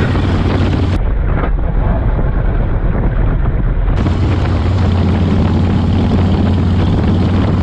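Motorcycle engine running steadily while riding, under heavy wind noise on the microphone. The sound changes abruptly about a second in and again about four seconds in.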